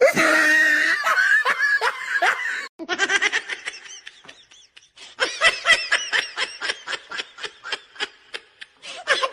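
Laughter, high-pitched and broken into quick repeated bursts of about three or four a second, after a brief gap about a third of the way in.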